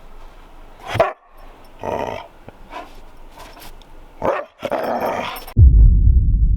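An excited dog barking and growling in a string of short bursts. About five and a half seconds in, a sudden loud low rumble cuts in and keeps going.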